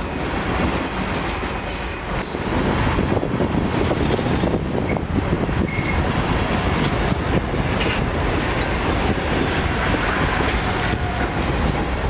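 Freight train rolling slowly past, its wheels clacking over the rail joints with a steady rumble and a couple of brief wheel squeals.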